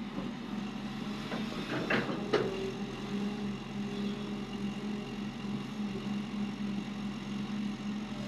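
Heavy diesel engine running steadily, with a few sharp knocks about two seconds in.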